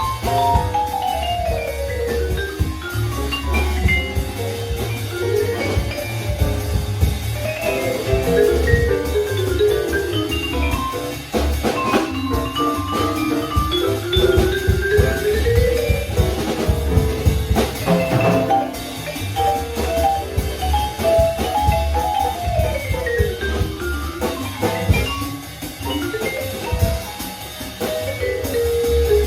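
Jazz quintet playing a swing tune: fast melodic runs sweeping up and down the register, in the tone of mallet percussion such as the vibraphone, over bass and drum kit.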